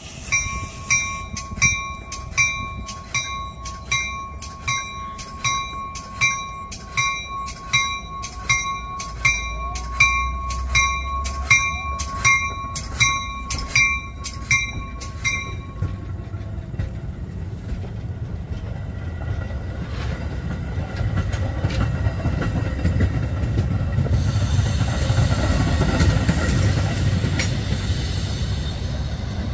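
A bell rings steadily by the tracks, about one and a half strokes a second, then stops about halfway through. A train's rumble then builds and it passes close by, its wheels loud on the rails with some high squealing near the end.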